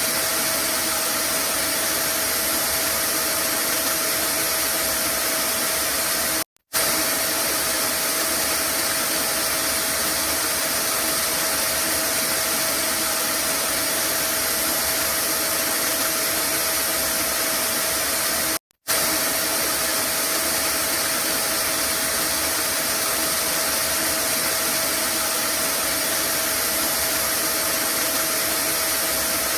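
Vacuum cleaner motor running steadily, with a constant whine over its rushing air. The sound cuts out for an instant twice, about twelve seconds apart.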